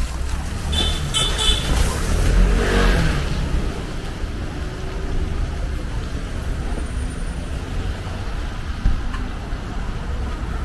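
City street traffic: a steady low rumble of vehicles, with a car passing about two to three seconds in.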